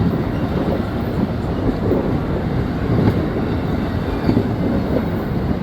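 Amtrak passenger train's cars rolling past on the rails, a steady rumble of wheels and running gear.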